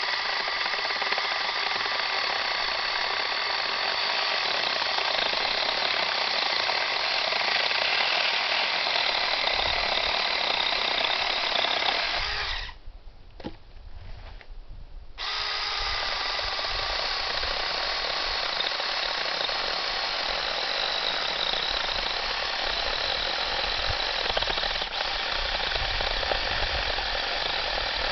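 Battery-powered 6-inch mini chainsaw running steadily while cutting wood, with a high motor whine. It stops for about two and a half seconds partway through, then starts again.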